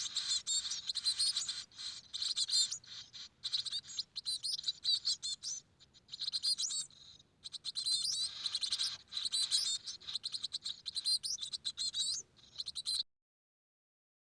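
Chicks in a nest inside a house wall chirping in dense, rapid, high-pitched bursts, which cut off suddenly near the end.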